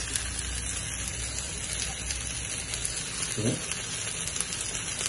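Diced mixed vegetables frying in hot oil in a pan: a steady sizzle with fine crackles as they cook after being tipped in.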